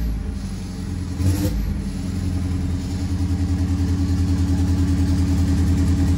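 Isuzu D-Max turbo diesel engine idling with an even, pulsing beat, with a short rise in revs about a second and a half in and the level growing a little louder in the second half.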